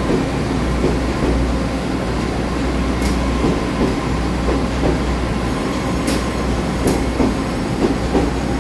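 A twelve-car Taiwan Railways EMU3000 electric multiple unit rolling past the platform at close range: a steady, loud rumble of wheels on rail with a low hum, broken by a few sharp clicks.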